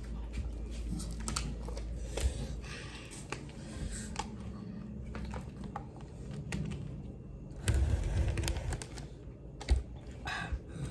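Light, irregular clicking and tapping of utensils and food containers at a meal table, with a denser flurry of clicks about three-quarters of the way through.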